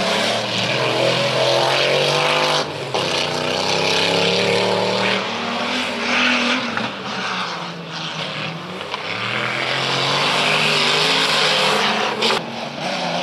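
Off-road racing 4x4 engines revving hard, their pitch rising and falling again and again as the drivers accelerate and lift off, over a steady hiss.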